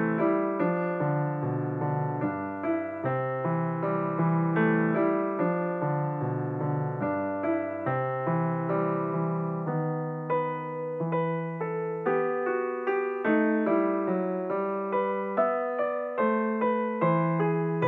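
Instrumental piano music: a gentle melody of struck notes over held low bass notes.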